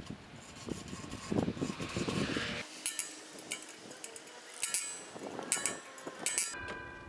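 Metal clinks and taps as a chimney extension pipe is fitted and fastened with its clamp: a low rumble for the first couple of seconds, then about half a dozen sharp metallic knocks, the last ones ringing briefly.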